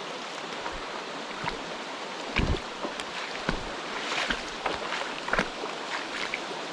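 Mountain stream rushing steadily, with scattered short splashes and knocks over it; the heaviest is a low thump about two and a half seconds in.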